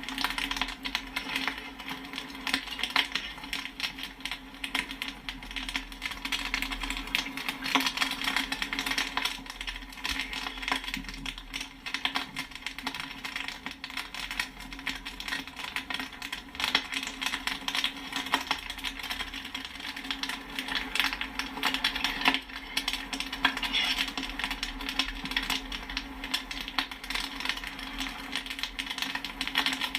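Popcorn kernels popping in a dense, irregular stream of sharp pops and pings, with a steady low hum underneath.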